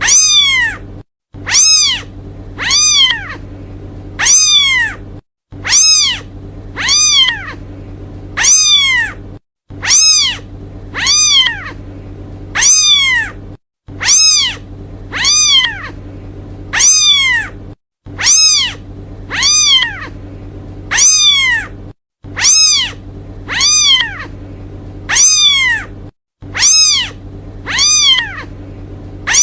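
Kitten meowing for its mother: short high meows, each rising then falling in pitch, repeated in an even run of about three every four seconds, over a faint low hum.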